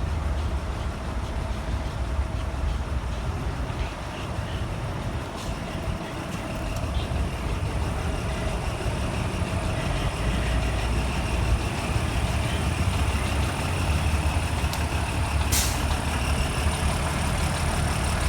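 Heavy construction truck's diesel engine running with a steady low rumble in street traffic, with a short hiss about three quarters of the way through.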